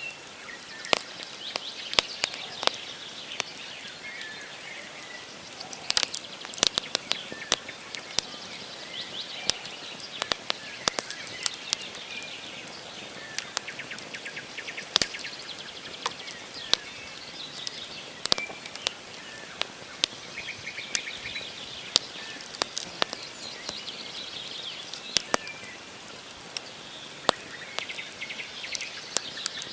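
Wood campfire crackling, with frequent sharp snaps and pops from the burning logs, while birds chirp in the background.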